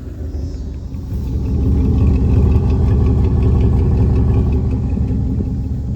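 A vehicle engine running, its revs and loudness rising about a second in and then held high, easing off slightly near the end.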